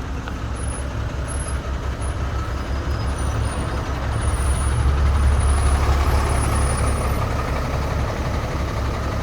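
City bus running, a steady low engine and road rumble that swells about halfway through and then eases a little.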